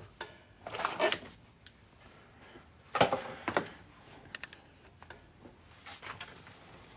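Handling noise of a 3D printer and its parts being moved and set down on a table: scraping rustles, a sharp knock about three seconds in, and a few light clicks after.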